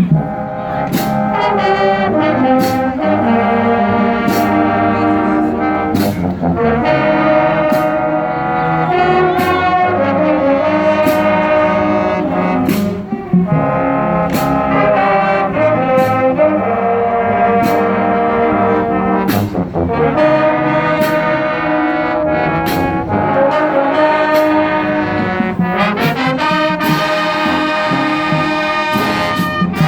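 A marching band playing: brass (trombones and trumpets) holding chords over percussion that strikes a steady beat, a little more than one hit a second. A brief dip in the music comes about 13 seconds in.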